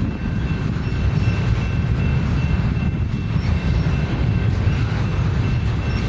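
Double-stack intermodal container train's cars rolling past: a steady low rumble of wheels on rail, with a faint steady high-pitched tone over it.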